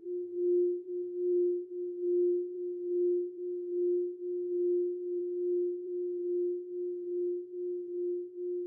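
Singing bowl sounding one steady low tone that swells and dips in a regular wavering, a little more than once a second.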